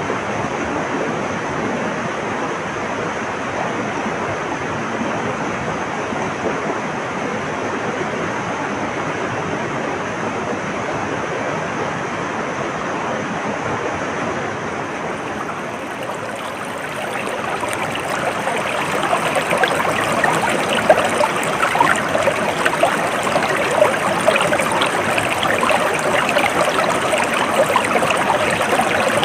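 Stream water flowing steadily. A little over halfway through it grows louder and brighter, with more close splashing.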